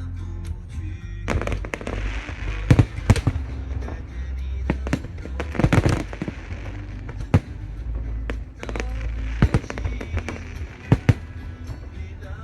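Aerial fireworks exploding: a string of sharp bangs with crackling between them, over music playing in the background.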